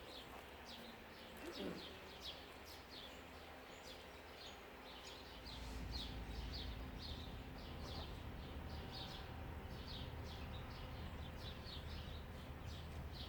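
Small birds chirping, a quick run of short, high, falling chirps repeating several times a second. A low steady rumble comes in about halfway through.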